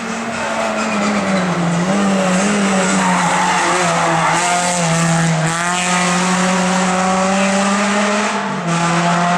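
Hill climb race car engine running hard at high revs. Its pitch drops and climbs back several times, with a short dip in loudness near the end, as the driver shifts gears and lifts off the throttle.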